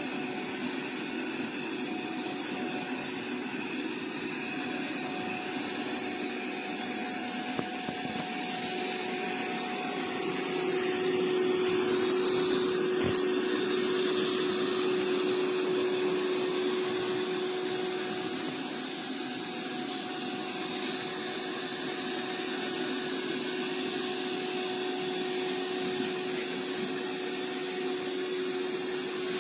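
iRobot Roomba 405 Combo robot vacuum running: a steady motor hum with a constant tone and a high hiss, getting a little louder about ten seconds in.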